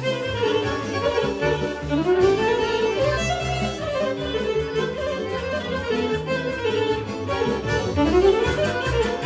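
Serbian folk band playing a fast kolo medley: a wind melody with quick rising runs about two seconds in and again near the end, over a steady bass beat.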